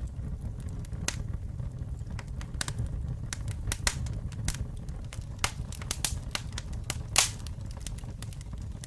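Campfire burning, with a low steady rumble and irregular sharp crackles and pops from the wood, the loudest pop about seven seconds in.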